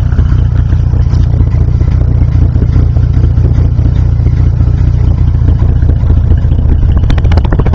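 1955 Chevrolet 235 Blue Flame straight-six idling steadily through a Fenton split manifold and dual exhaust, a low, even rumble of quick exhaust pulses. It is running okay.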